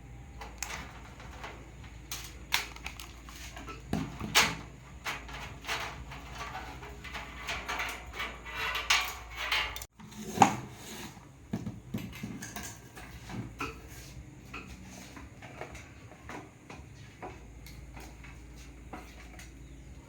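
Irregular clicks, knocks and light clatter of small objects being handled on a work surface, typical of tools and parts during a TV repair. The sounds are busiest in the first half, break off abruptly about ten seconds in, then carry on more sparsely.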